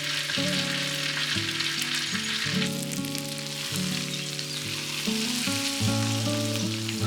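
Food sizzling in a hot pan, a dense crackling hiss, over soft melodic background music.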